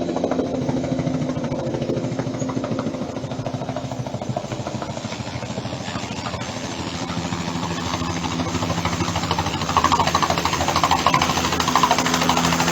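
Helicopter running close by, its rotor beating rapidly over a steady engine tone, growing louder about ten seconds in.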